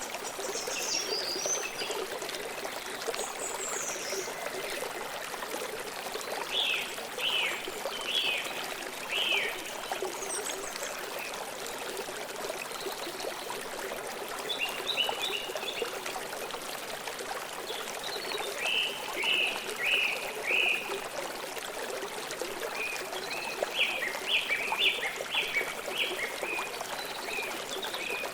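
Stream water flowing steadily, with birds calling over it: short runs of quick, high, downslurred notes every few seconds, more often and louder near the end.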